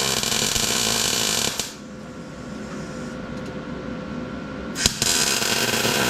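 Wire-feed welder laying tack welds on steel: a steady crackling buzz that stops about a second and a half in, then a second tack starting again near the five-second mark.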